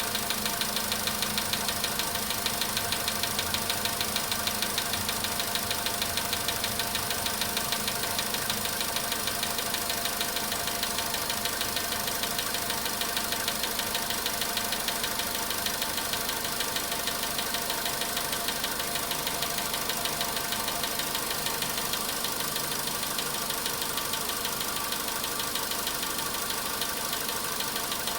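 Volkswagen Polo Sedan engine idling from a cold start with a rapid, even knocking ticking over the idle: the cold-engine knock that dies away as the engine warms up.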